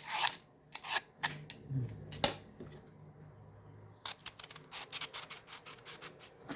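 Crisp, unripe mango being bitten and chewed up close: sharp crunches near the start and about two seconds in, then a quick run of small crunching clicks from about four seconds on as it is chewed.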